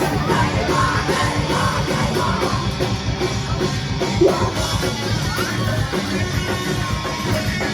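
Live heavy rock band playing loud, with distorted guitars, drums and shouted vocals.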